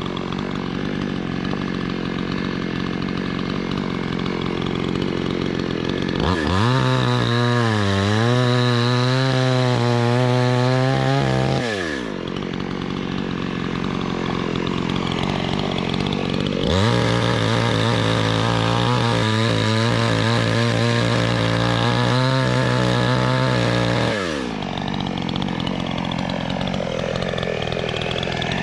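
Gasoline chainsaw running, throttled up twice to high revs for about six seconds each, its pitch rising sharply and then dropping back to a lower idle between bursts.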